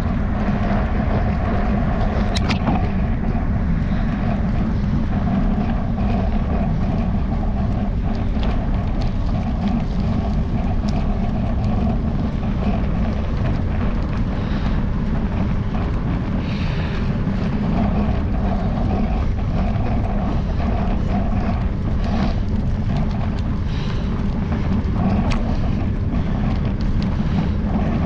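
Steady low rumble and road noise from a bicycle-mounted camera while riding, with the camera mount rattling and a few small clicks.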